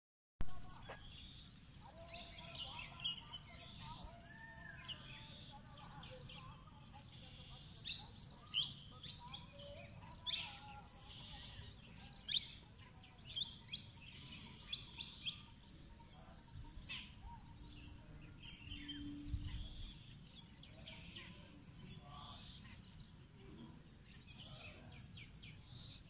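Small birds chirping in the trees: many short, high chirps scattered throughout over a steady outdoor hiss, with a brief low rumble about three quarters of the way through.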